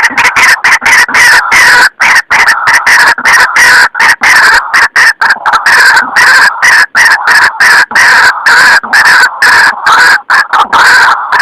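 White-breasted waterhen (ruak-ruak) calls played as a bird-lure recording: loud, rapidly repeated harsh notes in fast runs with short breaks.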